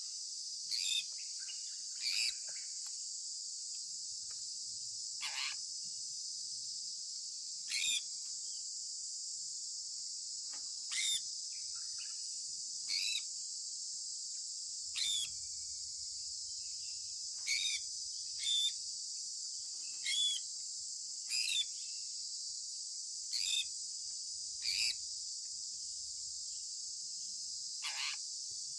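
Sun conure parrot giving short, sharp chirps that drop in pitch, about fourteen of them at irregular intervals of one to three seconds, over a steady high-pitched hiss.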